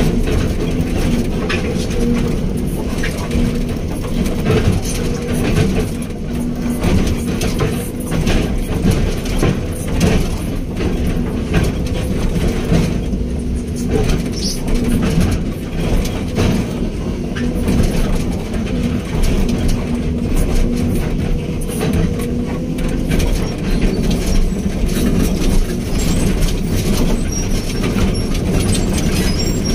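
Hydraulic excavator's diesel engine running steadily under load, with a steady hum that fades out about three-quarters of the way through, and scattered knocks and clanks throughout.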